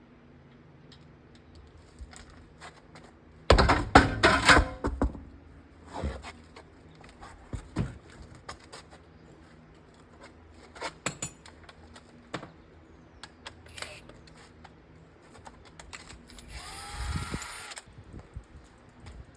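Car wheel work with hand and power tools: scattered metal clicks and clanks, a loud rattling burst about four seconds in, and a short whirring burst with a rising pitch near the end.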